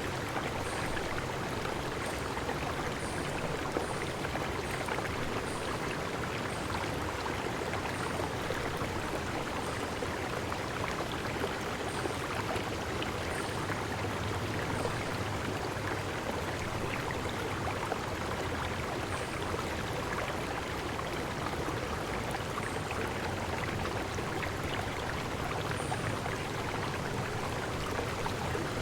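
Steady rushing of a stream's flowing water, with faint, short, high chirps of a bird here and there, most frequent in the first few seconds.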